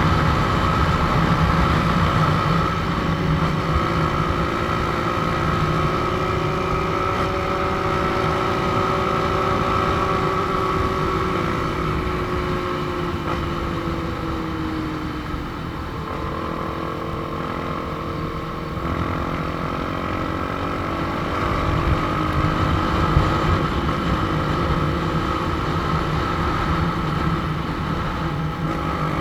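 Motorcycle engine running while riding, its pitch easing down slowly in the middle and climbing again a few seconds later, with wind noise on the microphone.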